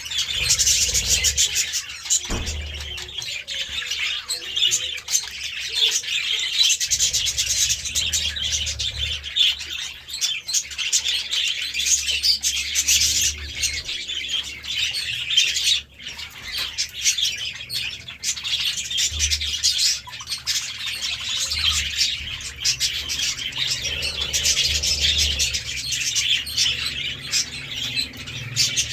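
Budgerigars chattering and chirping continuously in a dense, high-pitched stream, with a brief lull a little past halfway.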